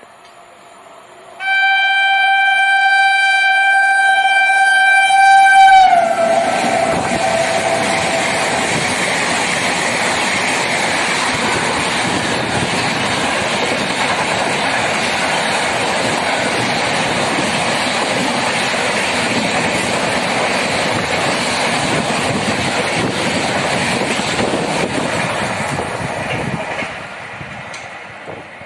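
Express train passing through a station at about 130 km/h. The locomotive's horn sounds one long steady note starting about a second and a half in, and drops in pitch as the locomotive goes by. The coaches then rush past with a steady, loud rushing noise that fades near the end.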